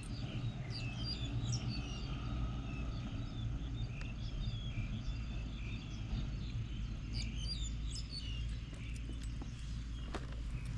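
Birds chirping, many short calls overlapping throughout, over a steady low rumble.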